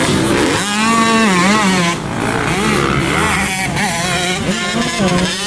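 Several motocross dirt bikes racing, their engines revving up and down as riders throttle on and off, with more than one engine's pitch overlapping.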